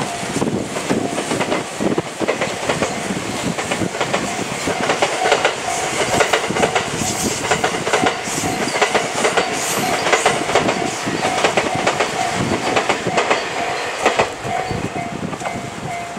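JR East E001 Shiki-shima sleeper train running past, its wheels clicking over the rail joints as the long train of cars goes by.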